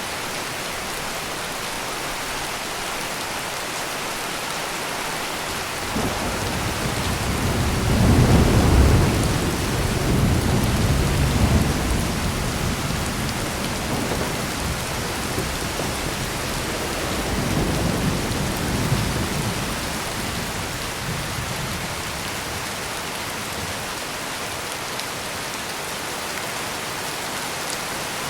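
Steady heavy rain with a long roll of thunder that starts suddenly about six seconds in, is loudest a few seconds later, and rumbles on with a second swell before fading away after about twenty seconds.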